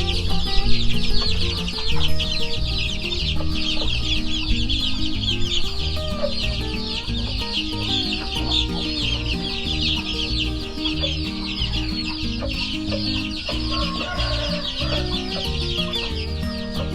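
A batch of month-old chicks peeping without a break, many high chirps overlapping. Background music with held low notes plays underneath.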